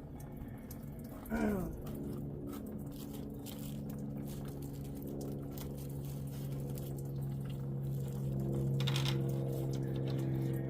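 Engine coolant pouring out of a Nissan KA24E engine into a catch can as the water pump is pulled, over a steady low hum. A short falling-pitch squeak comes about a second in.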